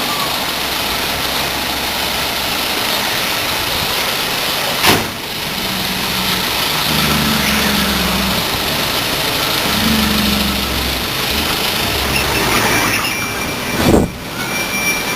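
Cement-tanker truck's diesel engine running, its low note shifting in the middle. Two sharp knocks, one about five seconds in and one near the end.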